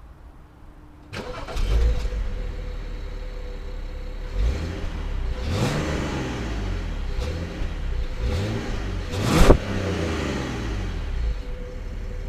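BMW 528i (F10/F11) started about a second in, then idling and blipped several times, the loudest rev about three-quarters of the way through. An Active Sound Soundbooster actuator in the exhaust plays a synthetic V8 note over the engine.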